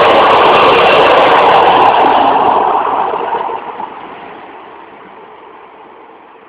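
SNCF train running past close by, a loud steady rush of noise that begins fading about two seconds in and dies away as the train recedes.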